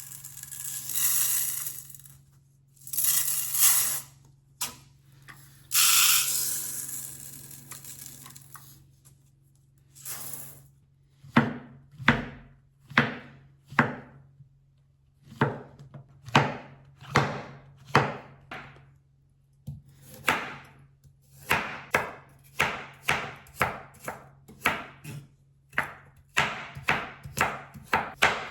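Knife chopping food on a cutting board: single sharp cuts about a second apart that settle into a steadier run of about two cuts a second. Before the chopping starts there are a few seconds of hissing, rustling noise.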